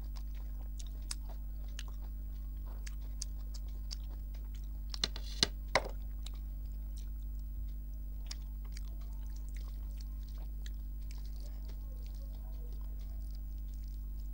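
Close-up mouth sounds of a person eating rice and curry: soft chewing with many small wet clicks, and three louder, sharper crunching bites about five to six seconds in, over a steady low hum.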